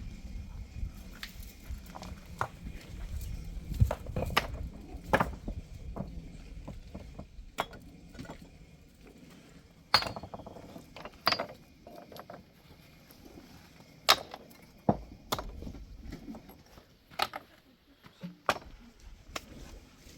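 A series of sharp, irregular clicks and knocks, spaced a second or more apart, over a low rumble that fades out in the first few seconds.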